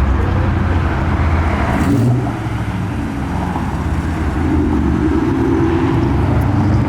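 A car's engine running as the car drives slowly past, a steady low rumble that dips a little about two seconds in and then builds again.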